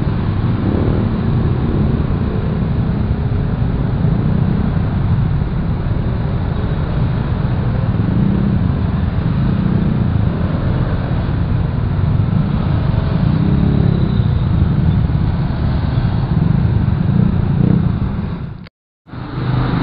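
Motorcycle being ridden: a steady, loud low rumble of engine and road noise, which cuts out briefly near the end.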